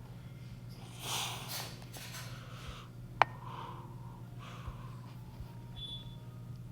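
Two noisy breaths or sniffs close to the microphone in the first three seconds, then a single sharp click just past three seconds, over a low steady hum.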